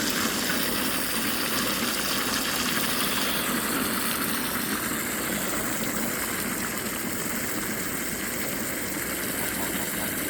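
Water running steadily into a poultry waterer as it is filled, a continuous rushing splash.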